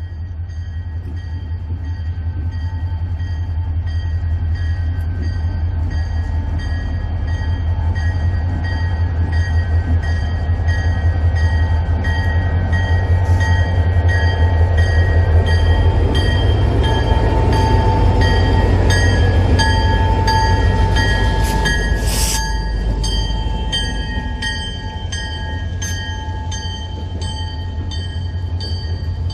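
A lashup of diesel locomotives with a freight train working past, a deep pulsing engine rumble that grows louder to a peak about halfway and then eases off. A sharp crack sounds about three-quarters of the way through.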